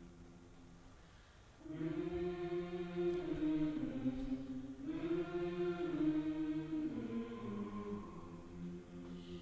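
A choir singing held notes without words. It swells louder about a second and a half in, and the pitch slides downward twice.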